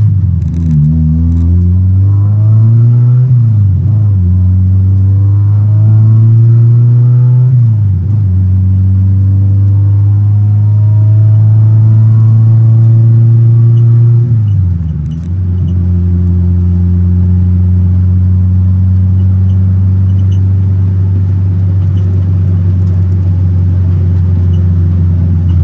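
Honda K-series four-cylinder with individual throttle bodies pulling under load. Its pitch climbs and drops back at three gear changes, then holds steady at a cruise for the last ten seconds.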